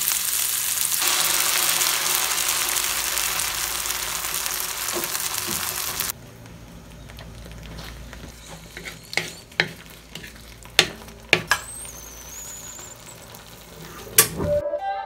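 Onion and red bell pepper sizzling loudly as they fry in a pan, cut off abruptly about six seconds in. Then a quieter simmer of thick cream sauce with a wooden spoon stirring, giving several sharp knocks against the pan.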